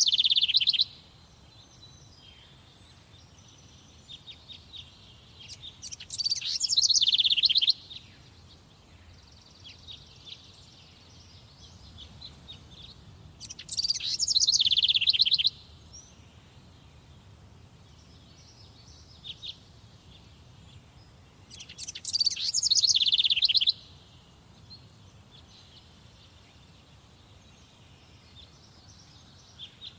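Forest songbirds singing. One bird repeats a loud song phrase of about two seconds roughly every eight seconds, three full times, while other birds chirp faintly in the gaps.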